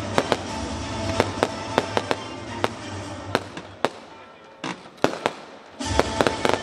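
Fireworks display: a rapid, irregular series of sharp bangs and crackles from bursting shells, over a continuous bed of music. The background thins out about four seconds in and comes back suddenly near the end, with more bangs.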